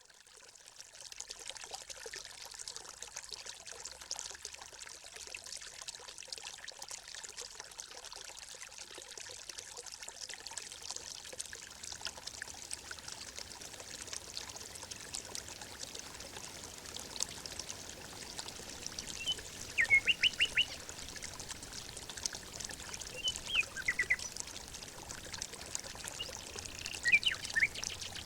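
Steady trickling, running water of a woodland stream, fading in at the start. A bird calls in short groups of quick chirps about two-thirds of the way through and twice more near the end, louder than the water.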